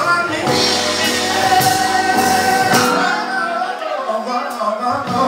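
Live music with a singer holding drawn-out notes over band accompaniment. The bass drops away for about two seconds near the end.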